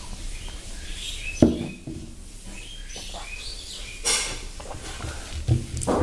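Small birds chirping in the background, with short high chirps repeating through the first few seconds. A single sharp knock about a second and a half in is the loudest sound.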